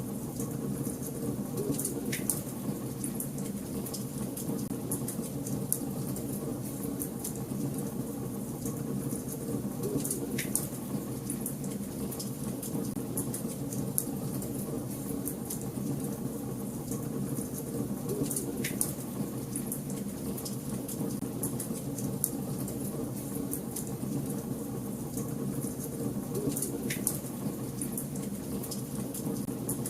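Wood fire burning in a fireplace: a steady low rumble of flames with constant small crackles, and a sharper pop about every eight seconds.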